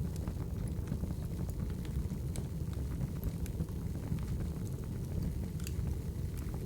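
Wood fire crackling: a steady low rumble of burning logs with irregular sharp pops and snaps scattered through it.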